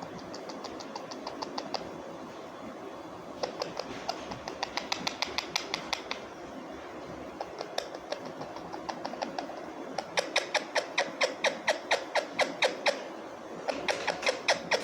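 Parrot making rapid repeated clicking calls, about six clicks a second, in runs of two to three seconds with short pauses between; the loudest run comes in the second half.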